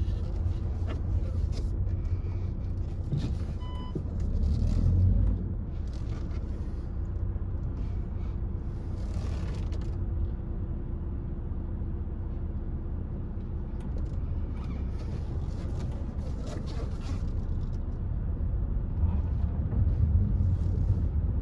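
Volkswagen Touran's 1.6 TDI four-cylinder diesel and road noise heard from inside the moving car: a steady low rumble. There is a short electronic beep about four seconds in.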